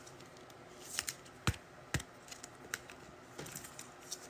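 Trading cards being handled and sorted: a scattering of soft clicks and snaps of card stock, about half a dozen over a few seconds.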